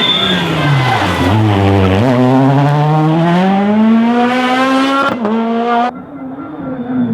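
Rally car engine slowing with the revs falling, then accelerating hard with the revs climbing steadily, with a quick gear change about five seconds in. The sound drops away suddenly about six seconds in.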